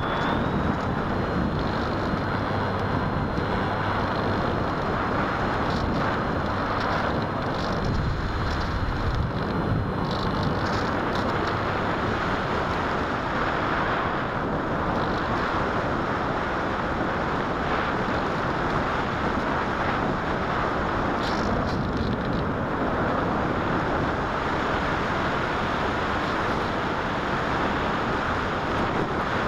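Steady rush of wind over a small camera riding on an electric model glider in flight, with a faint high whine that fades out after about ten seconds.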